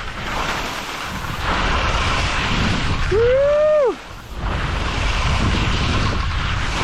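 Wind rushing over the microphone during a ski descent, with the hiss of skis on snow mixed in. About three seconds in, a brief shouted whoop rises and falls.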